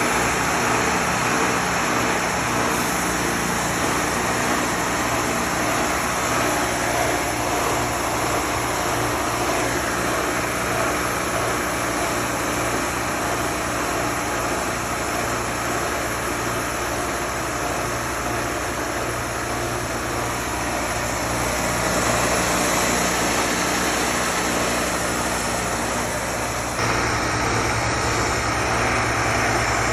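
Wood-Mizer LT40 portable sawmill running, its engine holding a steady speed under a broad, even mechanical noise.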